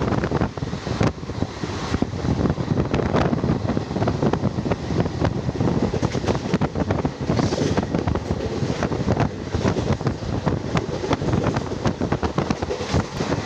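Passenger train running at speed, with wind buffeting the microphone and a steady rush over irregular clicks and knocks from the wheels and coach.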